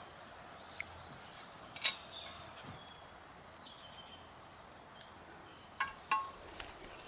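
Faint outdoor forest ambience with short, high bird chirps coming and going, and a few sharp clicks, the loudest about two seconds in and three more near the end.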